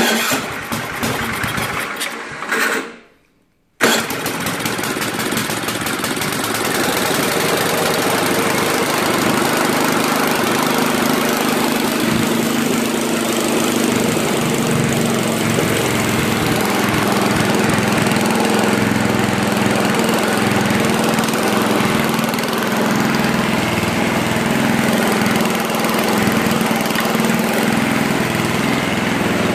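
1971 Ariens snowblower's 7 hp Tecumseh engine running steadily. It opens with about three seconds of rougher, ticking sound that breaks off into a short gap before the steady running sets in.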